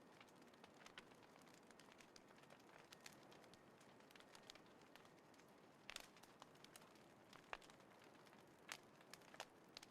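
Small campfire crackling faintly: scattered sharp pops, a second or so apart, over a low steady hiss, with the loudest pops about six, seven and a half, and nine seconds in.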